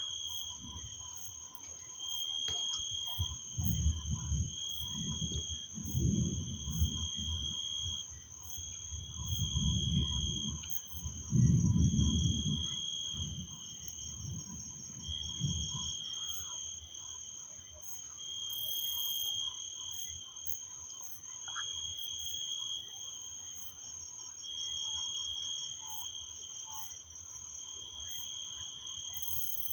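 Distant thunder rumbling low in several rolling swells over the first half, loudest about twelve seconds in, then fading. Throughout, insects call: a high chirring note pulsing on and off about every two seconds over a steadier, higher hum.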